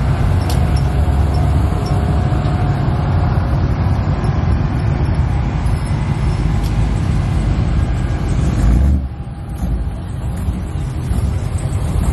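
A car engine running with a loud low rumble; the sound changes and drops in level about nine seconds in.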